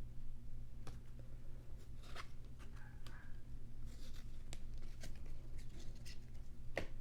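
Trading cards and pack wrappers being handled: scattered light clicks and rustles over a steady low hum.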